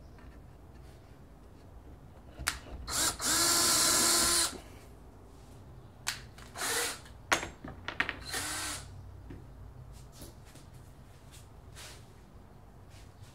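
Power drill running in three bursts: one of about a second and a half, then two short ones, with a few sharp knocks between.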